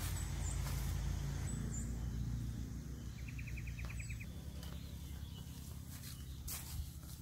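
Outdoor ambience with a few short, high bird chirps and a quick rattle of about ten clicks, over a steady low rumble.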